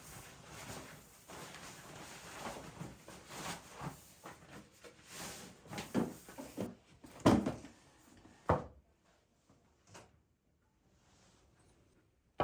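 Kitchen handling noises: soft rustling and small clatter, then two sharp knocks a little past the middle, as of a cupboard door or drawer shutting, after which it falls nearly quiet.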